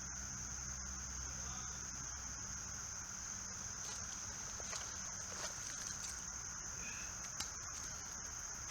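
Steady high-pitched chorus of insects buzzing without a break, with a few faint clicks about seven seconds in.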